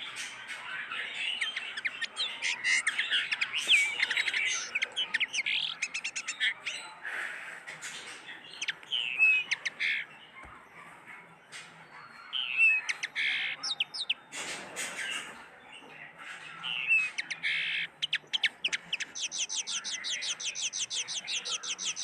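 Pet cage birds chirping and squawking, several calling at once, with a few louder squawks scattered through and a fast run of chirps, about five a second, near the end.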